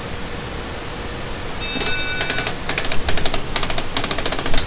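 Small electric motors of a fischertechnik walking robot starting up and driving its plastic gears and linkage with a rapid, irregular clicking rattle, beginning about a second and a half in with a brief whine. Before that there is only a steady hiss.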